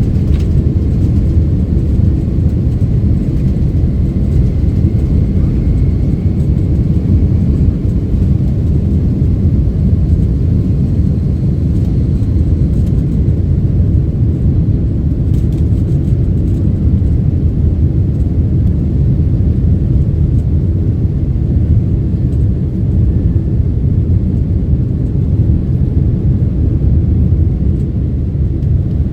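Boeing 767-300ER's twin jet engines and airflow heard from inside the passenger cabin, a steady loud low rumble at high thrust on departure. A faint high whine sits over it in the first half.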